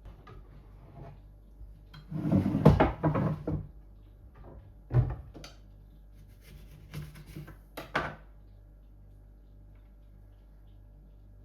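Knocks and clatter of objects being handled: a busy cluster about two seconds in, one sharp knock about five seconds in, and a few lighter knocks near eight seconds.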